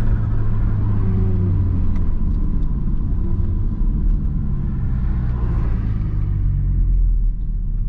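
Audi S3's turbocharged 2.0-litre four-cylinder engine, run with its diverter valve removed and an aftermarket turbo inlet fitted, making a loud, steady low rumble.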